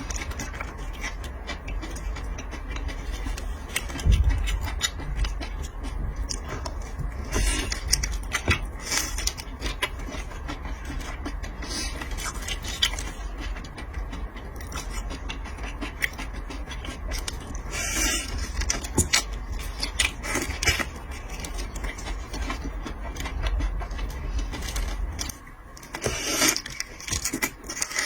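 Scattered scrapes and clicks of seafood shells and utensils being handled during eating, over a steady low rumble that cuts off a few seconds before the end.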